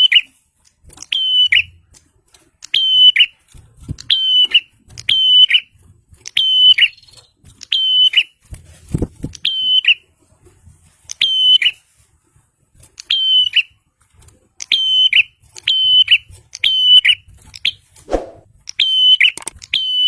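Prinia calling over and over: loud, short, sharp calls repeated roughly once a second, with a brief pause near the middle.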